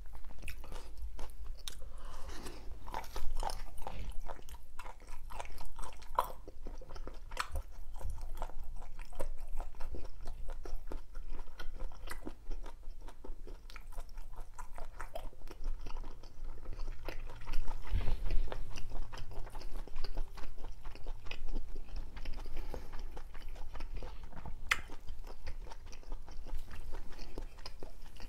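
A person chewing food with the mouth closed, close to the microphone: a steady run of small chewing clicks, with a louder low thump about 18 seconds in.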